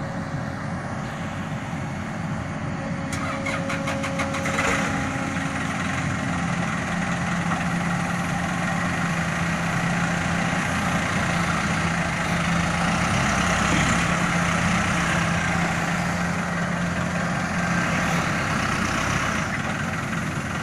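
A motor vehicle's engine running steadily under a constant hiss, with a few sharp clicks a few seconds in.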